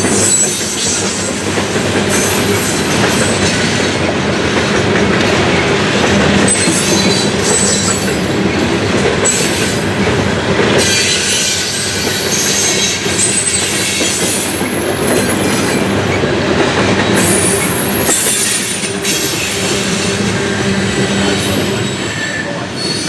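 CSX coal train's cars rolling past, wheels rumbling and clattering on the rails, with short high-pitched flange squeals coming and going.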